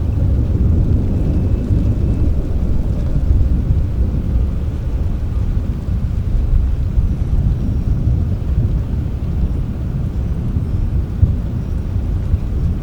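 Low rolling rumble of distant thunder over steady rain, swelling slightly in the first few seconds.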